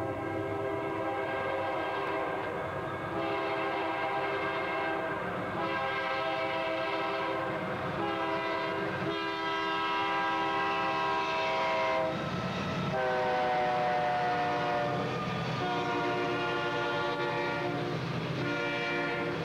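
Union Pacific C41-8W locomotive's Nathan K3LA three-chime air horn sounding a series of long blasts with short breaks, run by the locomotive's automatic horn-sequence ('auto blow') feature. The chord drops in pitch about two-thirds of the way through as the locomotive passes, over the rumble of the train.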